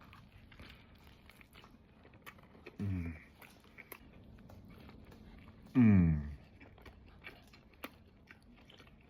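Close-up chewing and mouth sounds of a person eating a grilled chicken sandwich: small wet clicks throughout. Two short, falling hums of enjoyment come about three seconds in and again near six seconds, the second one louder.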